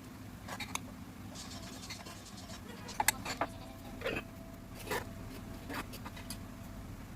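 Scattered scrapes and sharp clicks of things being handled, the loudest a pair of clicks about three seconds in, over a steady low hum.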